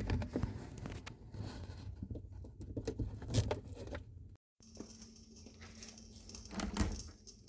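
Faint, irregular scraping, rustling and light knocks of hands-on handling work, with a short break about four and a half seconds in and a louder knock near the end.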